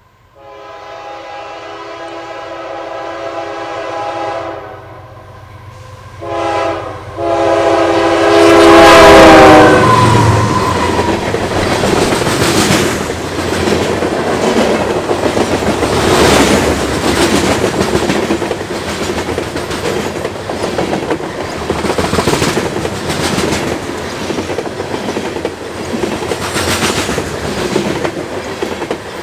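Train air horn sounding a long blast, then a short one and a longer, louder one whose pitch drops as it ends, followed by the train passing close by: loud rolling rumble with the clickety-clack of wheels over rail joints.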